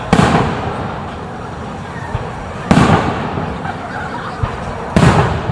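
Aerial firework shells bursting: three deep booms roughly two and a half seconds apart, each trailing off in a rumble.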